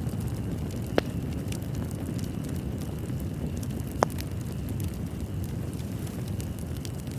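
Wood fire in a fireplace crackling, over a steady low rumble of flames, with two sharper pops about one second and four seconds in.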